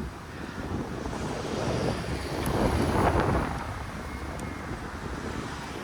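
Wind buffeting the microphone, with a rushing noise that builds to a peak about three seconds in and then fades.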